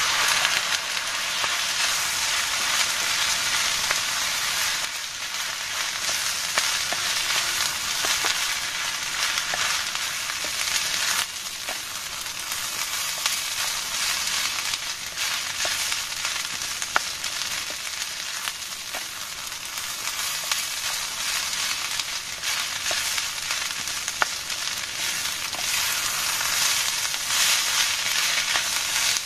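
Fried rice sizzling in a steel pan on a gas stove, with occasional light clicks from stirring against the pan.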